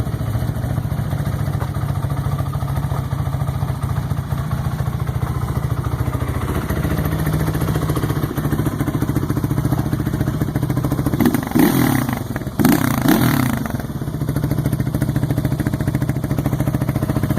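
Yamaha Warrior 350 ATV engine running steadily. Two short bursts of revving with rising and falling pitch come about eleven and thirteen seconds in.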